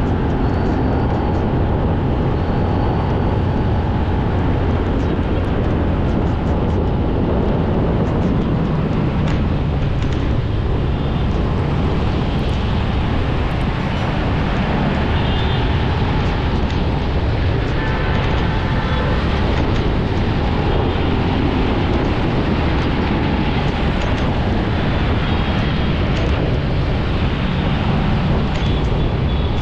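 Steady vehicle driving noise: engine and tyres running on the road, with traffic noise around it.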